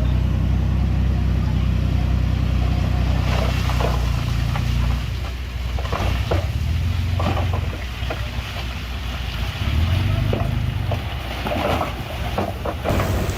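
Heavy diesel engine of an earthmoving machine running steadily. From about three seconds in, scattered knocks and clatter sound over it.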